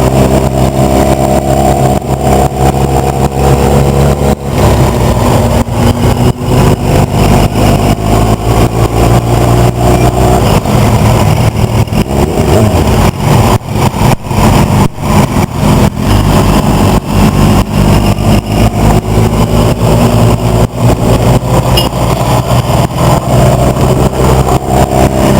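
Motorcycle engines running and revving, loud and continuous, with the engine pitch shifting now and then.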